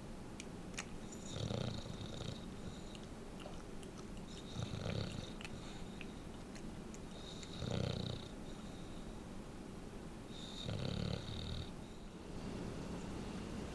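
English bulldog snoring in its sleep, four snores about three seconds apart in time with its breathing.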